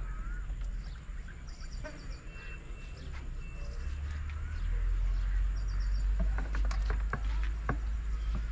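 Birds chirping and trilling over a steady low rumble, with several sharp clicks in the last few seconds.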